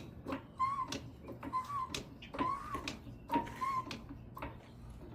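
A vehicle jack being worked under a pickup-size SUV, each stroke giving a click and a short squeak, about every half second to a second, with a pause near the end.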